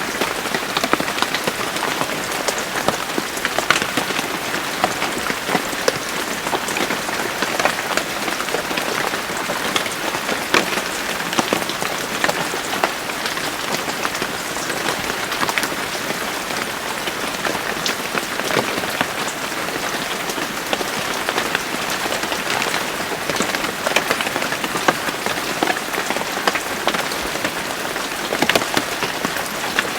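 Steady rain falling, with many distinct drops ticking and pattering on a hard surface over the hiss of the downpour.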